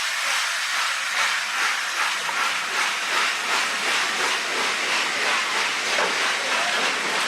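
Steam locomotive working, a loud continuous hiss of steam with a fast, even pulse running through it.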